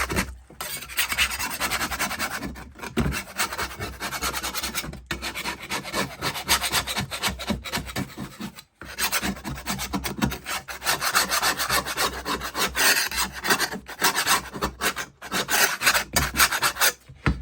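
Putty knife scraping built-up debris off a lawn mower blade in quick repeated strokes, with a few brief pauses.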